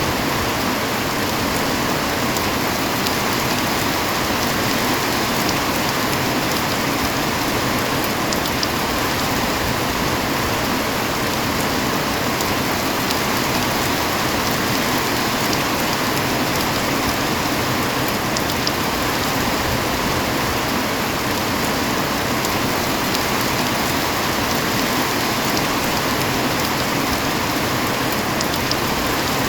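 Heavy rain falling steadily, an even, unbroken hiss with a few faint drop ticks.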